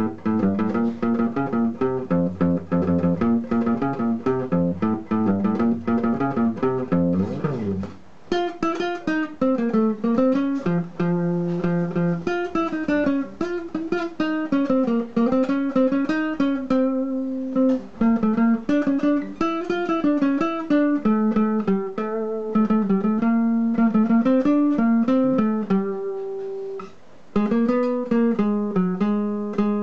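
Guitar playing an instrumental melody: fast-picked chords at first, then about eight seconds in a single-note lead line with slides and bends.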